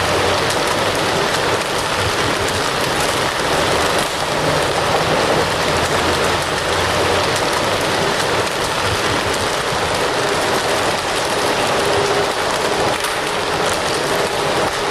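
Crackling fire: a steady hiss of burning with many small pops and snaps scattered throughout.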